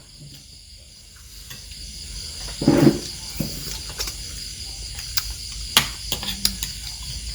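Steady high-pitched insect chorus, typical of crickets. A short, louder thud comes just before three seconds in, and a scattering of sharp clicks and knocks follows in the second half.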